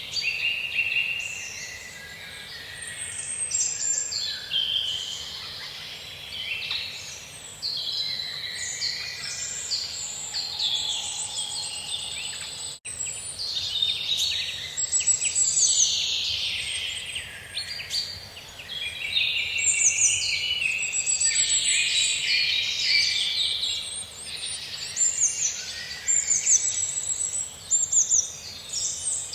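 A forest chorus of several songbirds singing and chirping at once, their songs overlapping and coming one after another, over a faint steady background hiss.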